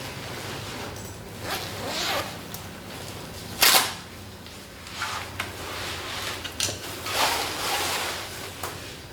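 Tea-making handling sounds: rustling, small knocks and clinks, with one sharper clack about three and a half seconds in, over a steady low room hum.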